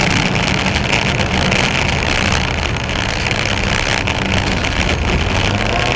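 Fiat Cinquecento rally car's engine running hard under load, heard from inside the cabin, with loud road and tyre noise throughout.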